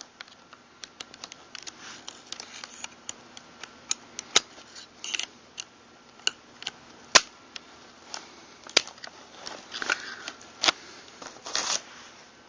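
Small metal parts of a Mossberg pump-action shotgun clicking and tapping as they are handled and fitted together during reassembly: a scatter of sharp, irregular clicks, the sharpest about seven seconds in.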